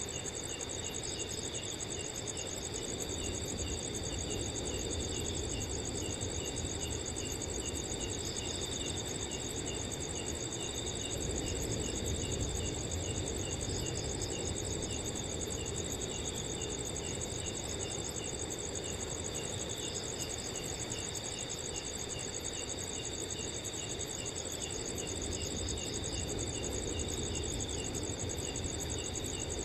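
Night chorus of crickets: several trilling steadily at different pitches, one chirping in an even pulse a few times a second, over a low rumble of wind that swells a little near the middle.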